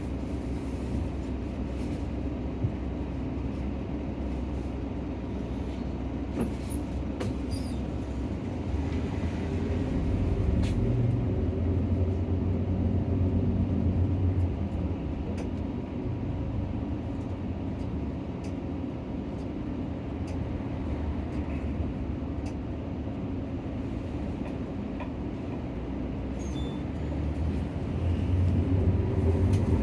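Nissan Diesel PKG-RA274KAN city bus heard from inside the cabin while driving: a steady low engine rumble with small rattles and clicks. The engine grows louder about a third of the way in and again near the end as it pulls.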